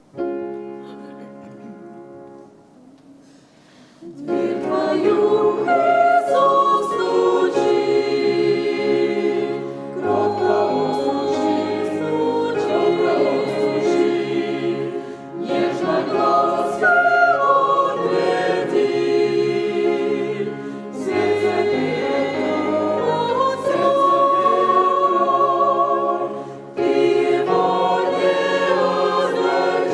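Church choir singing a hymn in several parts. It opens with a quiet held chord that fades, and the full choir comes in about four seconds in, singing in phrases with short breaths between them.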